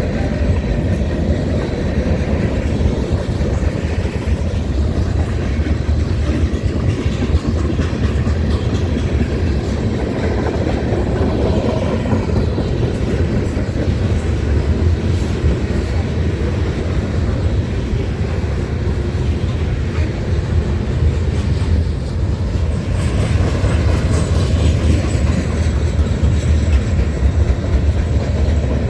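Train rolling past with a steady rumble of wheels on the rails, growing a little louder and brighter about twenty-three seconds in.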